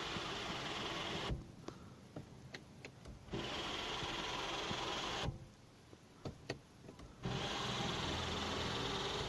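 Car's panoramic sunroof mechanism: its electric motor runs steadily in three spells of about two seconds, and in the quieter gaps between them short sharp creaks and clicks come from the roof. The creaking is the complaint.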